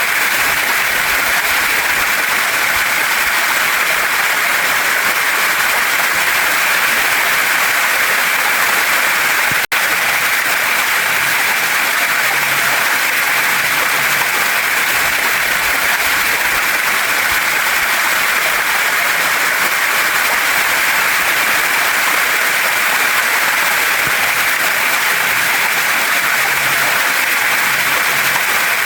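Steady rush of a waterfall and stream flowing over rocks, even and unbroken except for a split-second gap about ten seconds in.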